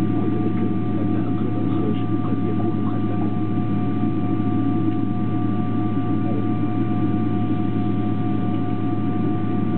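Boeing 777-200LR's GE90 jet engines running steadily at idle, heard inside the cabin as a low hum with a steady two-note whine.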